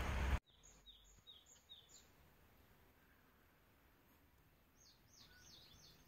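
A steady rushing noise cuts off abruptly about half a second in. Then a small bird calls twice in quick runs of four or five short, high, downward-sliding notes, a few seconds apart.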